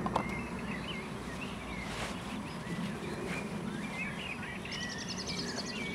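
Outdoor ambience with small birds chirping, and a fast, high trill near the end, over a steady low background rumble.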